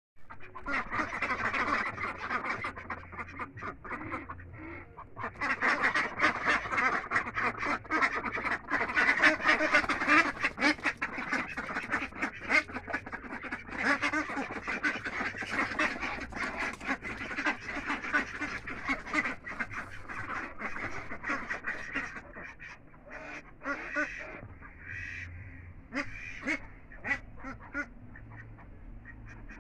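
A flock of domestic ducks quacking, many calls overlapping into a dense chatter, thinning to scattered single quacks after about 22 seconds.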